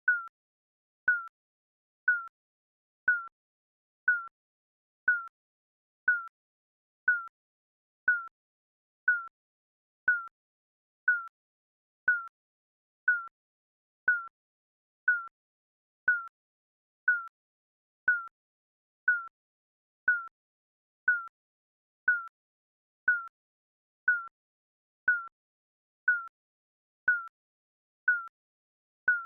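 Digital countdown timer beeping once a second: a short, clipped electronic pip, each with a slight drop in pitch, at an even pace.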